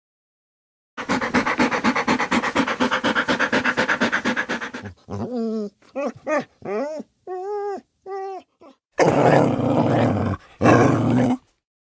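An animal calling: first a rapid, throbbing rasp lasting about four seconds, then a run of short pitched cries that rise and fall, then two harsh, rasping calls about a second long each.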